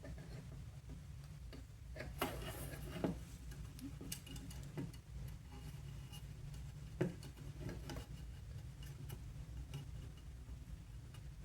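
Faint clicks and taps of small electronic parts being handled by hand, a battery and loose wires pressed against a circuit board, with a short rustle about two seconds in and sharper clicks near three and seven seconds. A steady low hum runs underneath.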